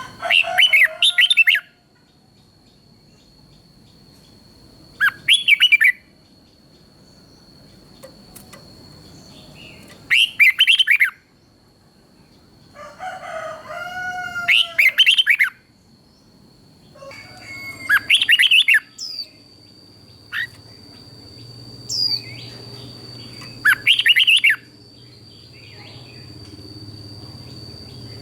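Red-whiskered bulbul singing short, bright warbled phrases, about seven of them, spaced a few seconds apart. A thin, steady high tone runs underneath.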